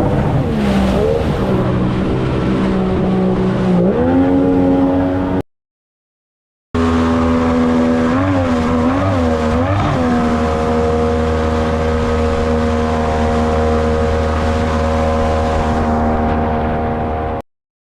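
Outboard jet motor on an inflatable jet boat running under throttle, its pitch dropping and then rising as the revs change. After a short break it runs again, wavering a few times and then holding steady, until it cuts off suddenly near the end.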